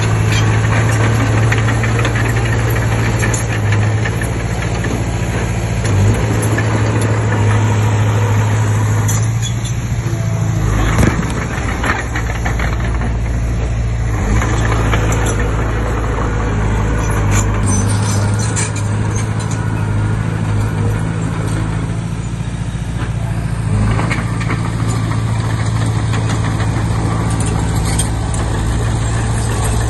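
Diesel engine of a Komatsu D20P crawler bulldozer running steadily while it works, with a few sharp knocks.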